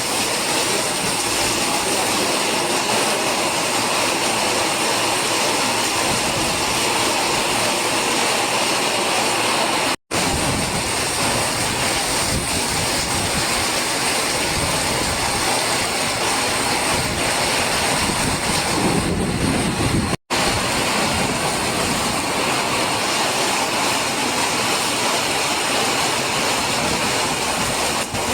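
Heavy rain in a downpour, a steady dense hiss of rainfall. It drops out for an instant twice, about ten and twenty seconds in.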